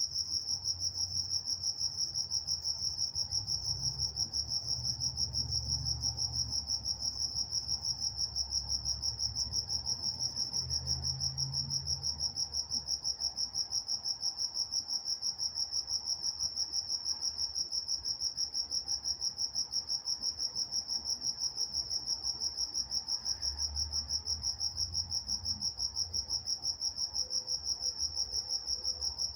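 Crickets chirping in a steady, even rhythm of chirps repeating a few times a second, with a fainter higher band above the main chirp. A faint low rumble swells and fades a few times in the background.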